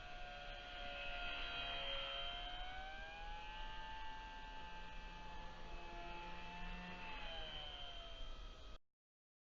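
E-flite UMX Waco's small brushless electric motor and propeller whining in flight, its pitch dipping and rising as the throttle and distance change. The sound cuts off suddenly near the end.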